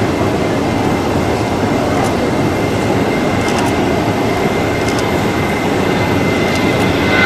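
Jet airliner engines running loud and steady: a broad rushing roar with a thin, steady whine above it.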